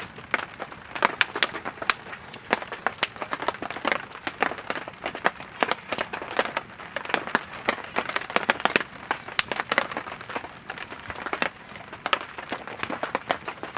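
Firewood burning in a campfire, crackling and popping irregularly, several sharp pops a second over a soft hiss of flames.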